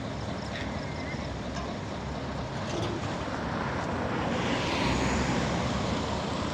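Heavy truck engine running steadily, growing louder in the second half.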